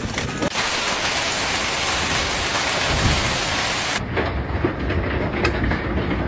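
Heavy hail falling, a dense steady hiss of countless impacts, with a few sharper individual hits standing out in the last couple of seconds. The sound changes abruptly about half a second in and again at four seconds.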